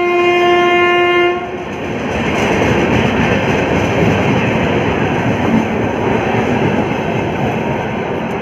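Train horn sounding one steady note for about a second and a half, followed by the loud, steady rumble and clatter of a train running along the tracks.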